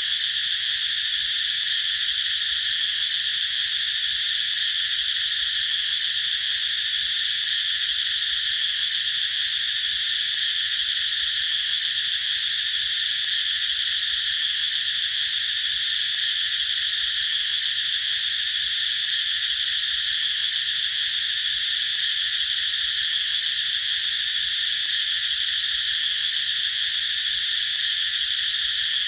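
Cicadas singing in a continuous, steady high-pitched drone that never lets up.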